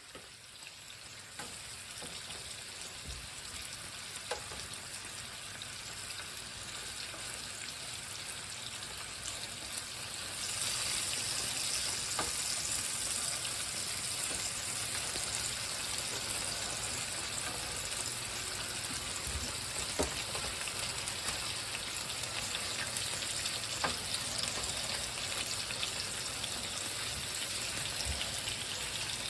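Bacon sizzling in a frying pan: a steady frying hiss that grows louder about ten seconds in, with a few small pops.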